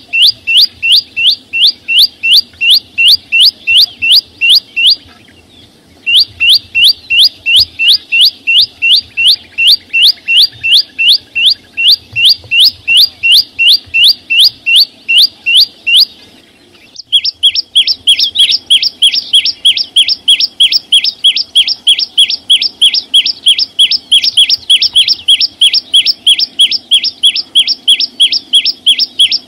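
A small songbird, the Vietnamese 'chim sâu xanh', repeats one short, sharp, downward-sliding chirp about three times a second. The series breaks off twice for about a second, and after the second break the notes come a little denser and brighter.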